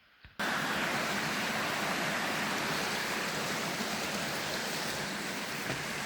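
Steady rushing of a waterfall, a constant full hiss of falling water that starts abruptly about half a second in.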